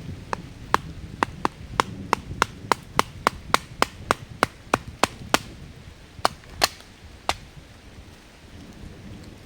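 A tool striking wood in a fast, even series of sharp knocks, about three a second, about twenty in all. After a brief pause, three slower strikes close the series.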